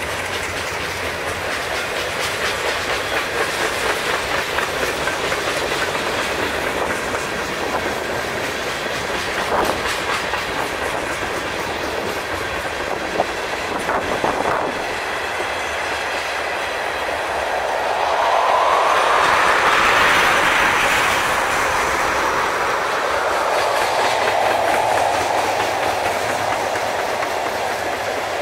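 Freight cars of a mixed freight train rolling past, gondolas and then tank cars, with a steady rush of steel wheels on rail and a few sharp clacks and knocks. The rolling noise swells louder for a few seconds about two-thirds of the way through.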